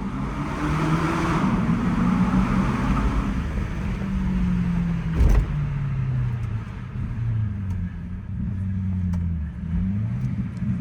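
BMW E60 550i's V8 running through a muffler-delete exhaust, its engine speed rising and falling. A single sharp knock about five seconds in.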